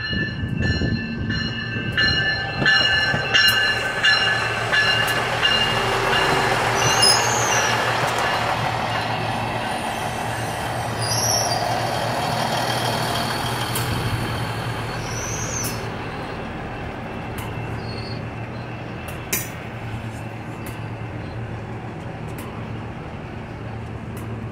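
Nippon Sharyo diesel multiple unit pulling into a station and slowing to a stop: wheel and rail noise, with three short wheel or brake squeals a few seconds apart. Once it has stopped, the diesel engine hums steadily at idle.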